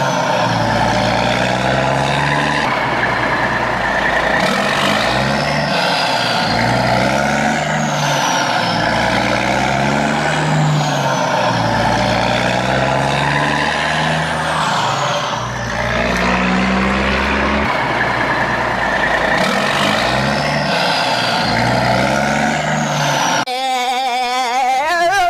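Heavy-vehicle engine sound effect repeating in a loop about every two and a half seconds, each cycle with a falling high hiss; it changes to a wavering tone near the end.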